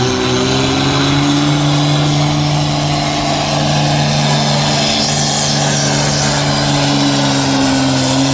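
A pulling vehicle's engine held at high revs under full load during a pull, running loud and steady at an even pitch.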